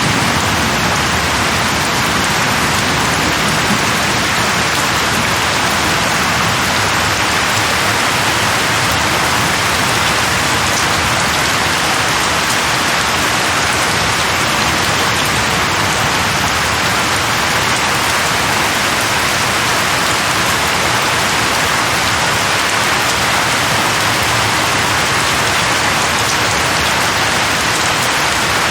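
Steady heavy rain falling on a surface, an even hiss that doesn't let up.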